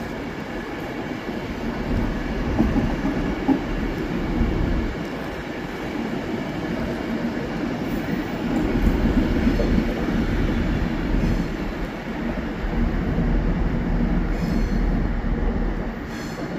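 Class 390 Pendolino electric train moving through the station: a steady rumble of wheels on rail that swells and eases.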